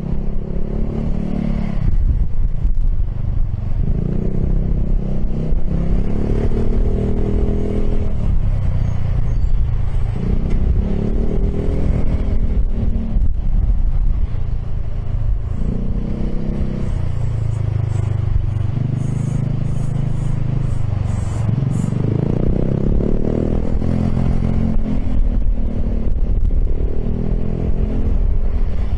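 Piaggio X10 scooter engine through an aftermarket Akrapovic exhaust, ridden in traffic, its note rising and falling several times as the throttle is opened and closed, over a heavy low rumble.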